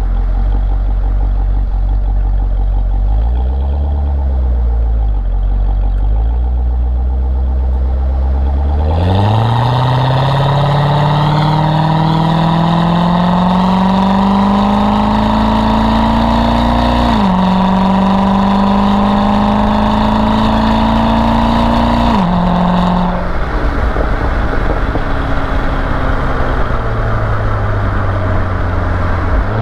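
C6 Corvette V8 idling, with a brief rev about four seconds in. About nine seconds in it accelerates hard, its pitch rising steadily, with two automatic upshifts marked by sudden drops in pitch, then settles to a lower steady run near the end.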